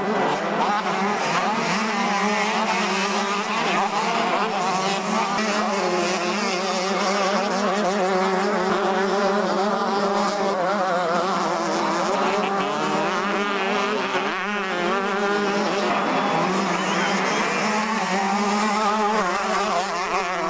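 Several 125cc two-stroke motocross bikes racing, engines revving hard, the pitch rising and falling quickly and constantly as riders work the throttle over the track.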